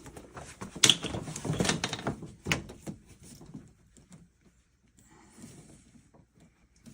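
Clicks and scrapes of a PEX fitting and tubing being handled and pushed together, with a sharp click about a second in, then only faint ticks.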